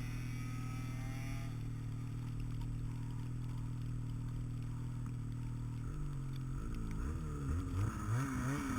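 An engine running at a steady pitch, then revving, its pitch rising and falling several times over the last three seconds.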